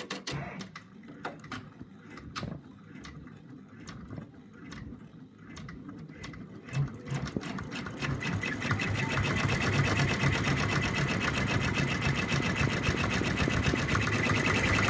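Embroidery machine stitching out a small design element, the bird's eye. For about the first half it makes separate stitch clicks, then it runs fast and steady, louder, with a steady whine.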